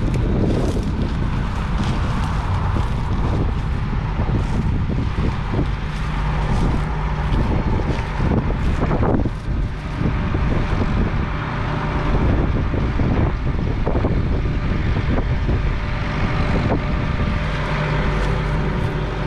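Massey Ferguson 1200's 5.8-litre six-cylinder diesel engine running steadily, with wind buffeting the microphone.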